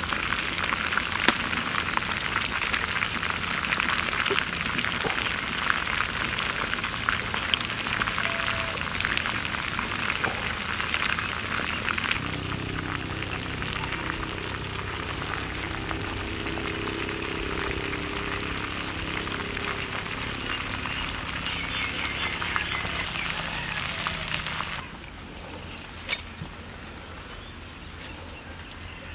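Food frying in hot oil in a pan, a loud sizzle full of fine crackles. About twelve seconds in the sound shifts and a faint low hum joins it. Near the end it drops to a quieter, duller sizzle.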